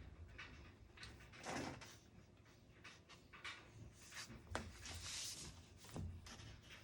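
Faint desk-handling sounds: a short rustle, a brief papery hiss, and a couple of sharp clicks or knocks, as objects are moved on a desk.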